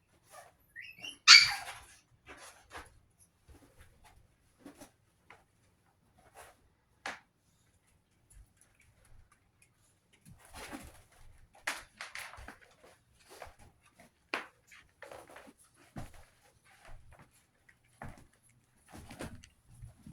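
Chihuahua puppies: one loud, high yelp about a second in, then scattered short yips and scuffling sounds of play.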